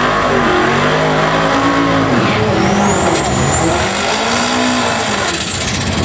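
Turbocharged four-cylinder Ford Mustang drag car accelerating hard down the strip. The engine pitch climbs, drops sharply at a gear change about two seconds in, then climbs again under a high whine that rises and fades near the end.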